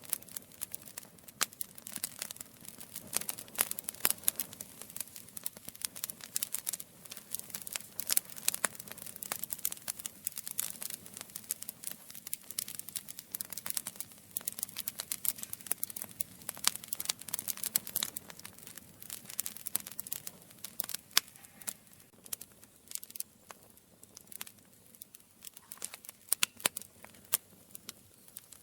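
Wood campfire burning with dense, irregular crackling: many sharp snaps a second over a soft, steady rush of flame.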